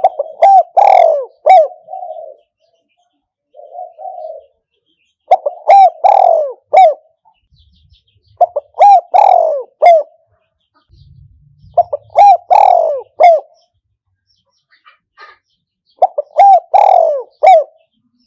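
Spotted dove, the caged decoy bird, cooing its call phrase five times, about every three and a half seconds. Each phrase is a few short, rising-and-falling coos, and a softer purring coo comes between the first two phrases.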